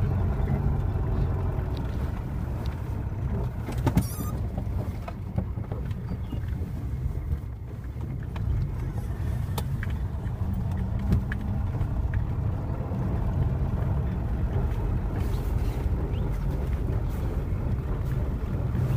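Moskvich 2140 four-cylinder car engine and road noise heard from inside the cabin while driving on snow: a steady low rumble, with a sharp knock about four seconds in.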